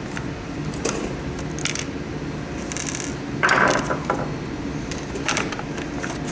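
Scattered clicks and light rattles of small plastic and metal parts being handled during a humidifier teardown, with one louder short scrape or rattle about three and a half seconds in, over a steady low hum.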